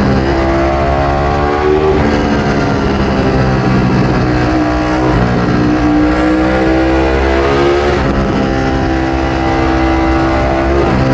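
Ducati Streetfighter V4S's 1103 cc Desmosedici Stradale V4 engine through an Akrapovic exhaust, accelerating hard: the pitch climbs, then drops at each upshift, about every three seconds, four shifts in all.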